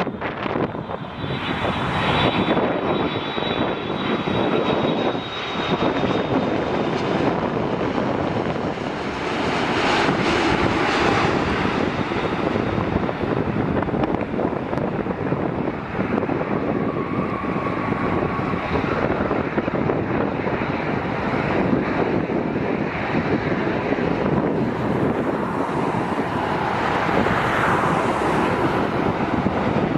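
Jet airliner engines rumbling past in a steady rush, with a faint high whine in the first several seconds, over wind buffeting the microphone.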